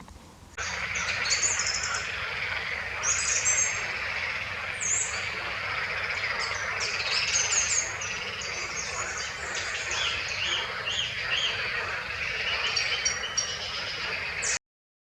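Several songbirds chirping and trilling in a busy chorus over a steady wash of background noise, starting suddenly about half a second in and cutting off abruptly near the end.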